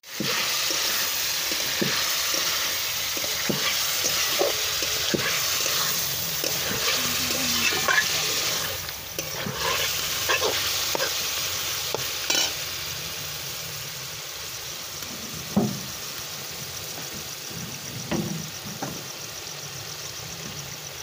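Marinated chicken pieces sizzling as they fry in hot mustard oil in an aluminium wok, with a metal spatula scraping and stirring through them. The sizzle is loudest at first and eases a little after about nine seconds.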